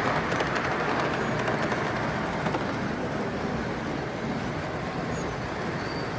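Model trains running on a show layout: a steady rumble and whir of wheels on track, with a few faint clicks, easing a little after the first couple of seconds.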